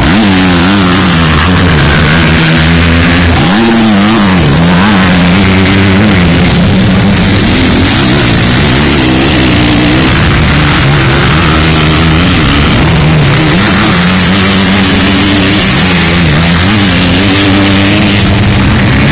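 Motocross bike engines racing past, revving hard and shifting through the gears, pitch climbing and dropping again and again.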